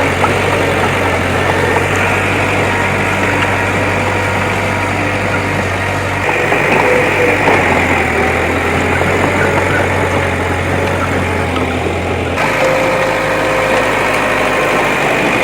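Heavy earthmoving machine engine running steadily, with a low drone and a constant whine. The sound shifts abruptly twice, about six and twelve seconds in.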